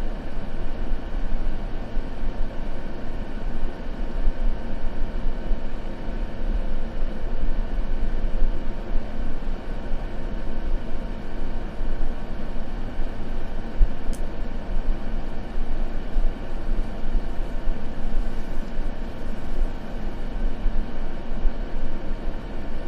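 Continuous white-noise sleep ambience: an even, steady hiss weighted toward a low rumble, with one faint click about 14 seconds in.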